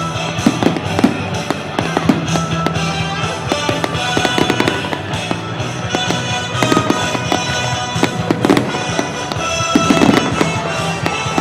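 Fireworks display: frequent sharp bangs and crackling bursts over loud music playing throughout.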